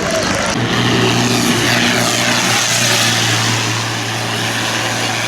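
Tractor engine running at a steady speed with a constant drone, under a loud rushing noise; the sound changes abruptly about half a second in.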